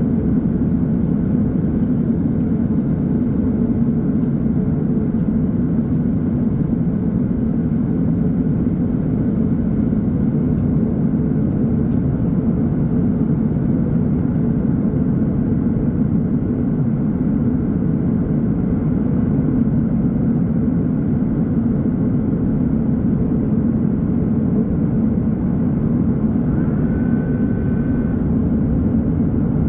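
Steady cabin drone of an Airbus A330-900neo in flight, from its Rolls-Royce Trent 7000 engines and airflow. A brief high tone sounds near the end.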